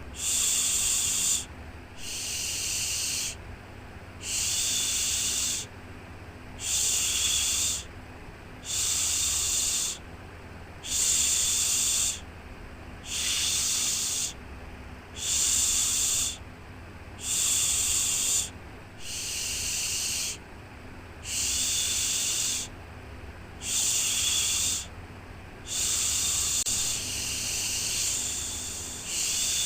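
Repeated 'shhh' shushing sounds for lulling a baby to sleep, one about every two seconds, each held for a little over a second, over a steady low rumble.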